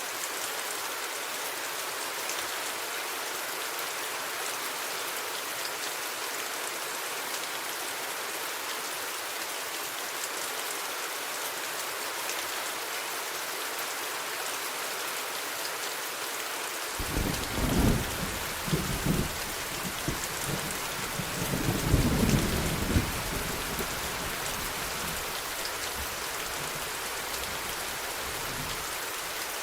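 Steady heavy rain hissing. A little past halfway, a long roll of thunder rumbles in suddenly, swells twice, then fades away near the end.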